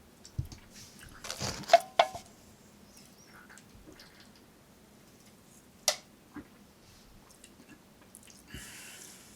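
Tabletop handling noises: a short flurry of rustling and clicks about a second and a half in, a single sharp click near six seconds, and a brief soft hiss near the end.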